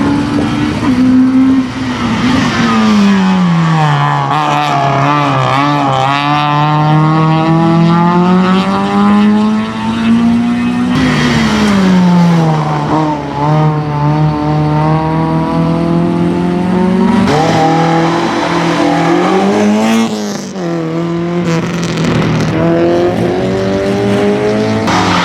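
Racing car engine running hard. Its pitch climbs slowly for several seconds and then drops, three times over.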